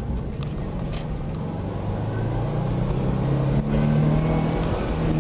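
Car engine accelerating, its pitch climbing steadily from about two seconds in, over a constant low road rumble.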